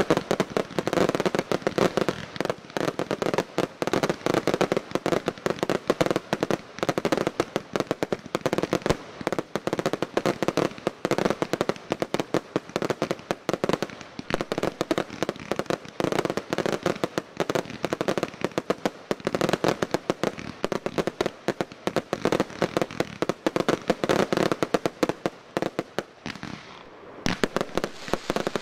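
Aerial fireworks barrage: shells and cakes bursting in rapid, overlapping succession, a dense run of bangs and crackle. It thins briefly near the end and then picks up again.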